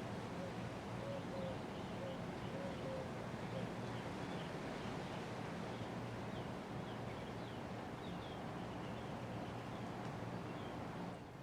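1983 Casablanca Panama Slumber Quiet five-blade ceiling fan running steadily, a low motor hum under an even rush of air, with faint bird chirps.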